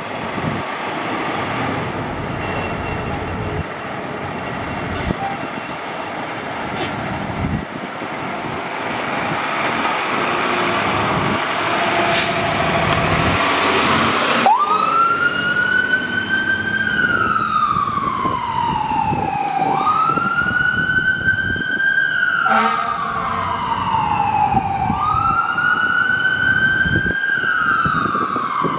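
Fire apparatus pulling out: its engine noise grows louder, then about halfway through its siren starts, wailing in slow cycles about every five seconds, each rising quickly, holding briefly and falling slowly.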